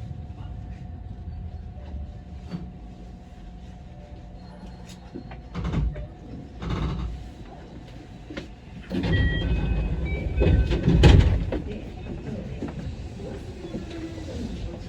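Electric commuter train of the JR West Osaka Loop Line, heard from the driver's cab during a station stop: a steady low hum, with loud knocks about five and a half and seven seconds in and a louder run of clatter and short high tones from about nine to eleven seconds in.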